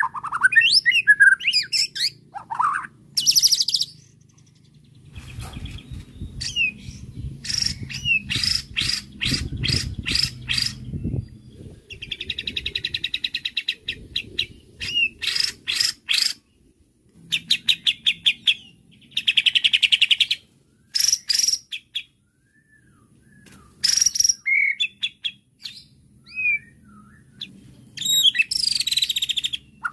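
White-rumped shama (murai batu) singing a varied, showy song: whistled glides, fast runs of sharp repeated notes and buzzy rattles, in phrases broken by short pauses. A low rumble runs under the song from about five to eleven seconds in.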